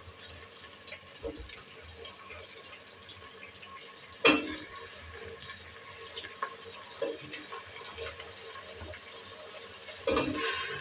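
Eggplant and green chillies frying in hot oil in a deep pot: a soft, steady sizzle and bubbling. There is one brief loud sound about four seconds in, and near the end the sizzling turns much louder as raw potato pieces are dropped into the oil.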